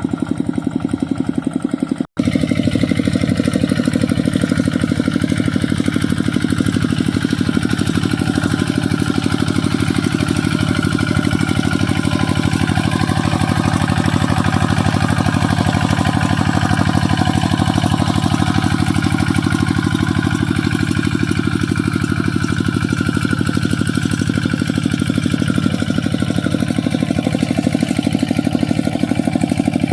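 Mini tractor's engine running steadily with a rapid, even beat while plowing a muddy rice field, cut by a split-second gap about two seconds in.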